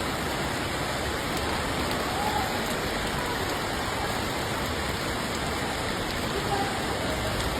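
Steady rain falling, an even hiss of drops that holds the same level throughout.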